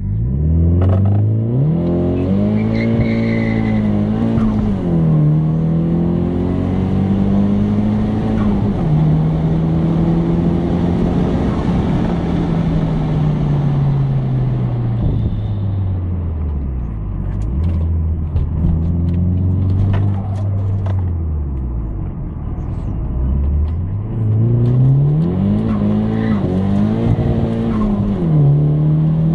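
Nissan Silvia S14's four-cylinder engine heard from inside the cabin, accelerating through the gears: the pitch climbs and drops back at each shift. It holds steady for a few seconds in the middle, falls away as the car slows, then climbs through the gears again near the end.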